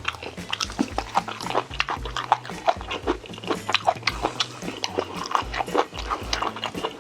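Close-miked eating sounds: a mouth chewing, with many quick wet clicks and crunches coming irregularly throughout. Under it runs a low music bed that pulses about twice a second.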